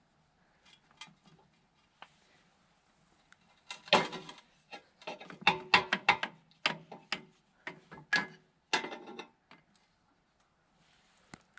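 Hand wrenches clinking and clanking against the metal fittings of a hydraulic line. The clanks come in an irregular run of a dozen or so sharp knocks, mostly in the middle of the stretch.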